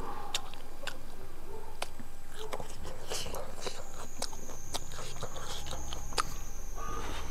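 Close-miked eating sounds: a person chewing with wet mouth clicks and lip smacks, heard as scattered short sharp clicks, while eating rice and chicken by hand.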